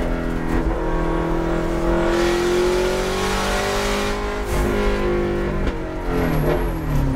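Subaru STI's turbocharged flat-four engine heard from inside the car under hard acceleration, its note rising steadily for about four seconds. It then drops as the car comes off the throttle, and the note falls and wavers near the end as the car slows.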